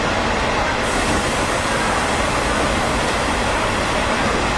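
Diesel railcar running steadily through a tunnel: a constant rumble of engine and wheels on rail, with no distinct clacks.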